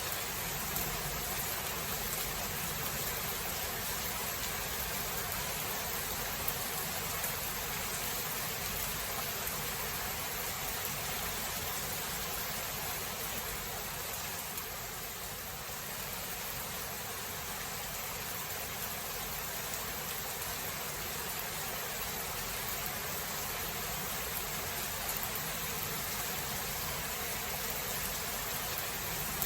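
Steady rain, an even hiss with no distinct thunderclap; it eases slightly about halfway through.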